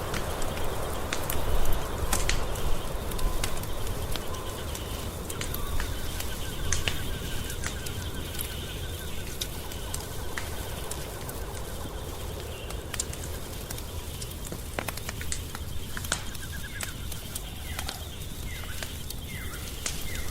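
Wood fire burning in a fireplace, crackling and popping with irregular sharp snaps over a steady low rumble. Faint high chirping calls sound in the background, most noticeable near the end.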